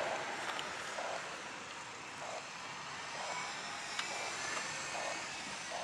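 Jet engines of a Boeing 737-700 (CFM56-7B turbofans) running, a steady hiss.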